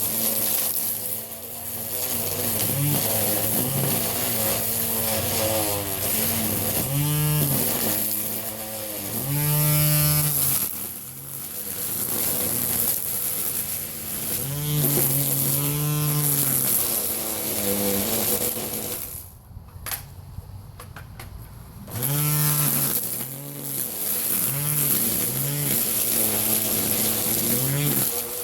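Battery-powered string trimmer's electric motor whirring up and winding down again and again as the trigger is squeezed and eased. It stops for about two seconds a little past two-thirds of the way through, then starts up again.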